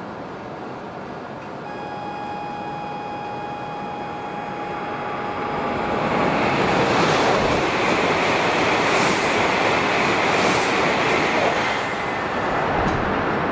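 E7/W7-series Shinkansen passing through the station at speed without stopping: a rush of air and wheel noise that builds, stays loud for about five seconds, then eases slightly near the end. A steady high tone sounds during the approach.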